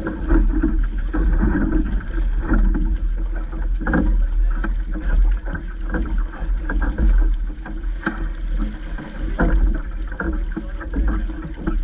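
Wind buffeting the microphone with a heavy rumble, over water splashing and slapping against a small boat's hull, with many scattered short knocks and slaps.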